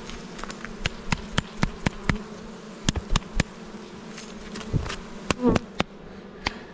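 Honeybees buzzing in a steady hum around an open hive, with a run of sharp clicks and knocks from the beekeeper working the hive's frames.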